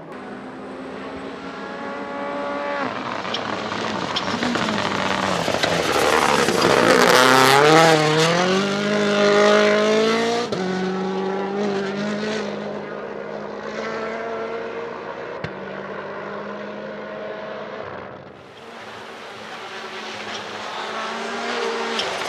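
A WRC Rally1 car's turbocharged engine at full throttle, its note climbing and dropping back through quick upshifts as it passes loudest about eight seconds in. It then runs on and fades, and a rising engine note builds again near the end.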